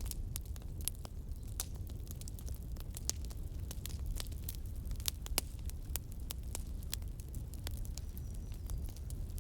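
Campfire burning, with frequent irregular crackles and sharp pops over a steady low rumble.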